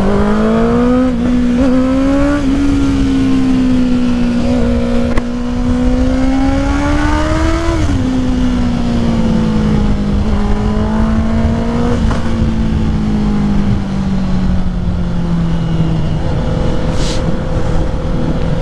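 Honda CBR650R's inline-four engine running loud through an aftermarket full exhaust with its dB killer still fitted, under moderate, varying throttle while riding. The note climbs gently, drops off about eight seconds in, then settles to a lower steady note near the end.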